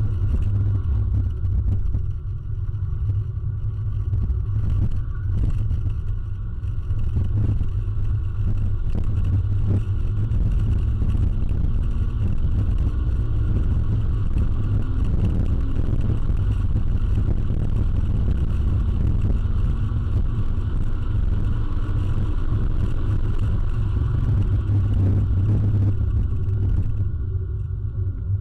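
Inside the cabin of a 2006 Toyota Corolla XRS driven on a track: its 1.8-litre four-cylinder engine running under load with a heavy low rumble of engine and road noise. The sound dips briefly a few times and eases off near the end.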